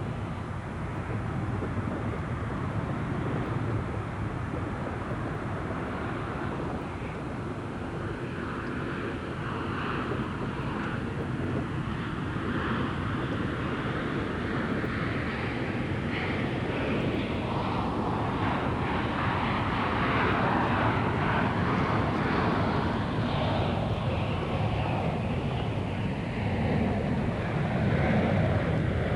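Jet engines of a Southwest Airlines Boeing 737 at takeoff power. A broad, even roar builds slowly, peaks about two-thirds of the way through, and shifts to a heavier low rumble near the end.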